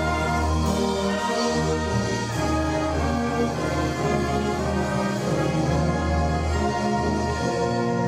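Symphonic concert band playing: sustained brass chords over a moving low-brass bass line.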